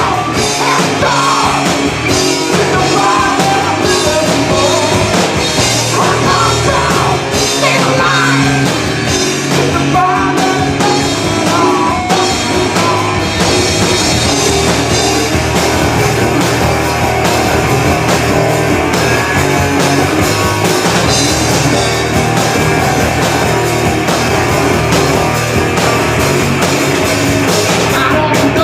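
Live rock band playing loud, with drum kit and singing.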